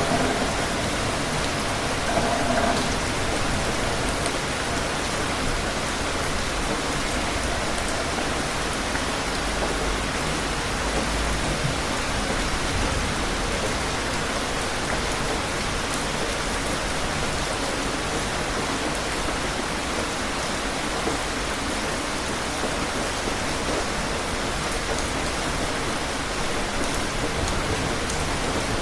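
Steady rain falling and pattering on surfaces, an even hiss that holds at one level.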